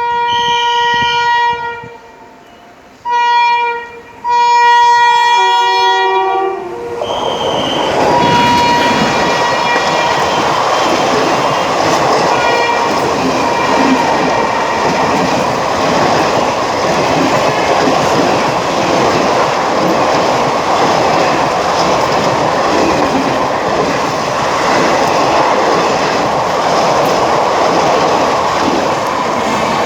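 Train horn sounded three times, the third blast dropping in pitch as the locomotive passes. A long express train then rushes past at speed, its wheels rumbling and clattering on the rails.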